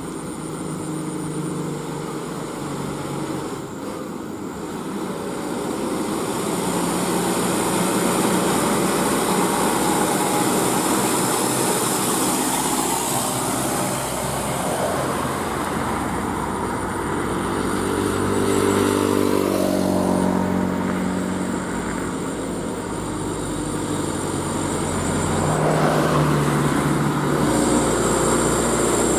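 Engine of a heavily loaded truck labouring up a hill, its note rising and falling a few times as it climbs.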